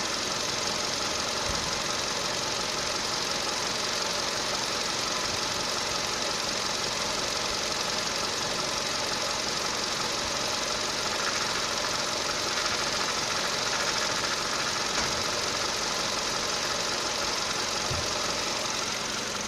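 Volkswagen Polo Sedan running steadily, with a few low knocks now and then whose cause the owner can't explain.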